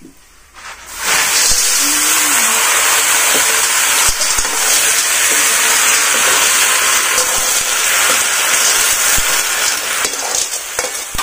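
Wet snails dropped into a hot wok, sizzling loudly and steadily in the fat from about a second in, with a few light knocks of the metal ladle against the wok as they are stirred.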